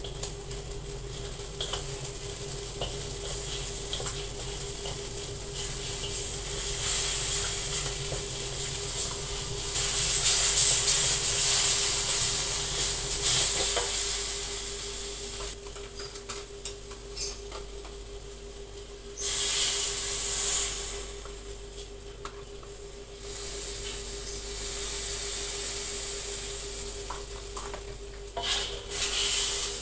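Spice paste sizzling in oil in an aluminium wok while a plastic spatula stirs and scrapes it. The sizzle swells and fades in waves and is loudest about a third of the way in, with a steady low hum underneath.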